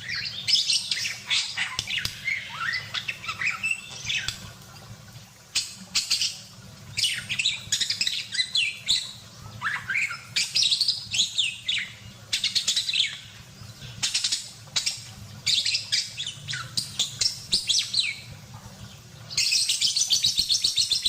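Budgerigar (parkit) chattering in lively bouts of quick chirps and warbled whistles with short pauses between, breaking into a dense run of fast chatter near the end. A faint steady low hum runs underneath.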